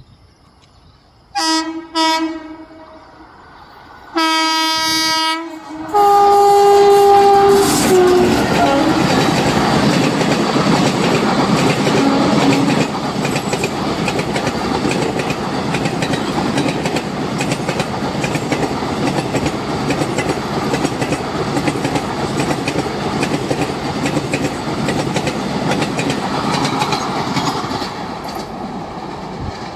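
Indian Railways express train locomotive sounding its horn: two short blasts, then two longer ones, the last dropping in pitch as the locomotive passes. The train then rumbles and clatters by at full speed for about twenty seconds, fading near the end.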